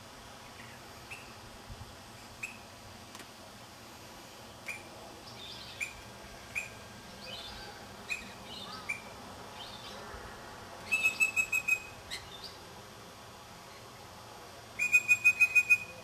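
Songbirds chirping: scattered short chirps, and twice a loud, fast run of about eight identical notes, about eleven seconds in and again near the end.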